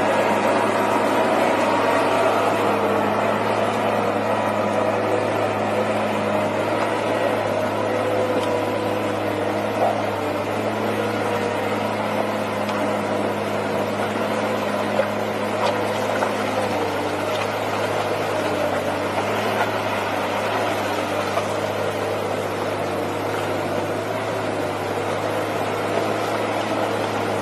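Engine running at a steady, constant speed with an even drone, and a few faint ticks over it.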